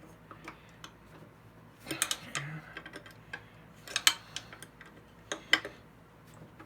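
Sharp metal clicks and taps of a hand tool on the thickness planer's cutterhead blade screws, in small groups about two, four and five and a half seconds in, as the screws are checked for tightness.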